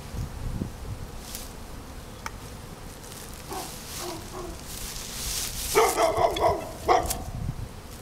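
A dog barking in short bursts, with a quick run of barks about six seconds in, over the buzzing of a honeybee swarm.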